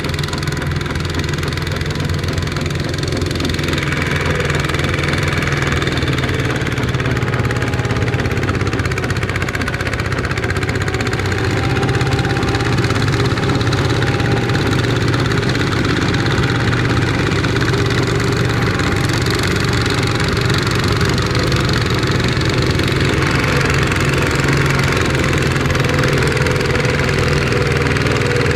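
Small Kubota ZT155 tractor's diesel engine running steadily, getting slightly louder about twelve seconds in.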